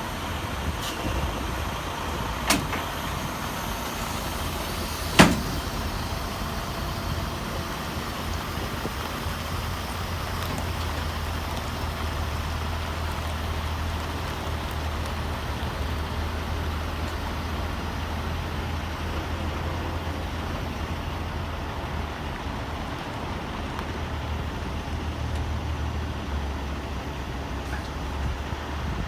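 Semi-truck's diesel engine running with a steady low hum. There is a sharp click about two and a half seconds in and a louder one about five seconds in.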